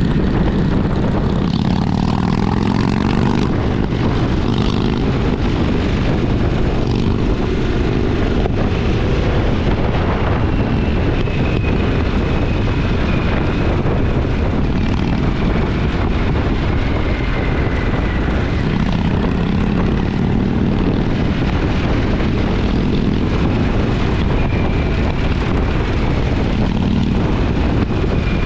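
Motorcycle engine running at a steady riding speed, mixed with heavy wind noise.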